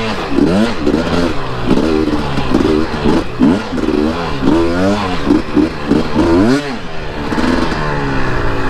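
Dirt bike engine on a trail ride, revving up and dropping back again and again as the throttle is worked, often about twice a second, then running more evenly near the end.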